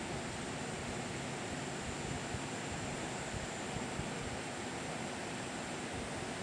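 Steady, even rushing noise with no distinct events, like water or wind in the open air.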